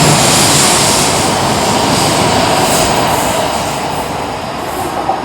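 Shinkansen train moving along the platform tracks, a loud rushing of air and rolling wheels that slowly fades over the last couple of seconds.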